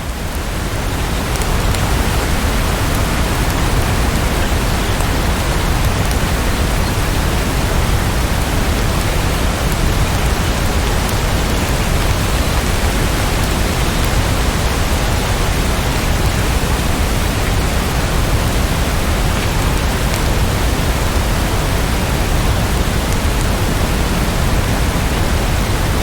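Steady rain, an even dense hiss with no distinct drops, fading in over the first second or two and then holding level.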